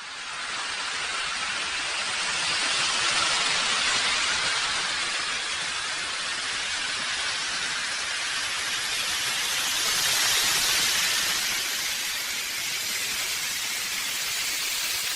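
Steady hiss from a butane-fired live-steam model locomotive as it runs, with no clear chuff rhythm.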